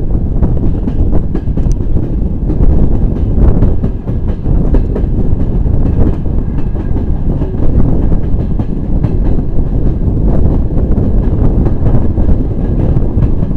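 Passenger train coach running on the line, heard from inside: a steady wheel-and-track rumble with frequent short clicks of the wheels over rail joints.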